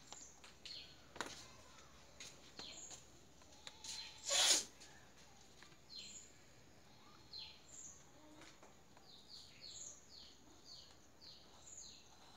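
Faint, short, high falling bird chirps repeating about twice a second through the second half, with scattered light clicks and one brief loud hiss-like burst about four and a half seconds in.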